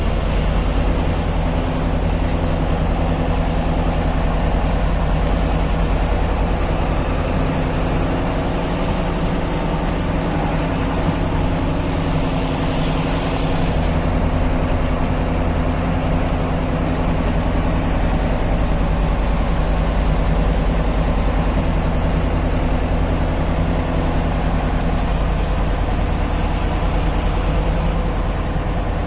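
Heavy truck's diesel engine running steadily on the road, a low constant drone with road noise above it; a brief rise in hiss about halfway through.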